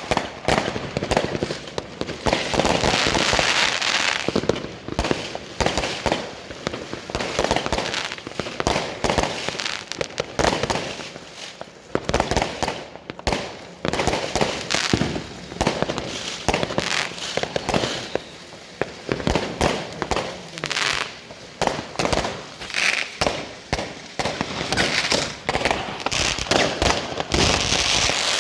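Fireworks and firecrackers going off in a dense, irregular barrage of overlapping bangs and crackling, easing briefly about twelve seconds in.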